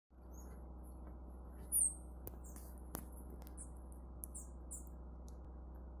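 Small birds giving short, very high, thin chirps. The loudest, a quick falling chirp, comes just under two seconds in, with a few fainter chirps and a couple of sharp clicks after it, over a steady low hum.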